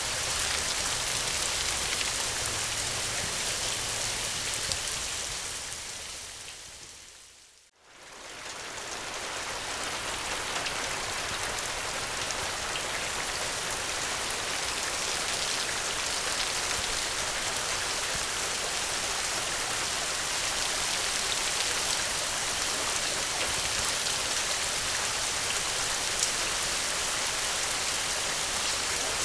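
Steady rain falling, a dense even hiss of drops. About six seconds in it fades away to near silence, then comes straight back up and carries on steadily.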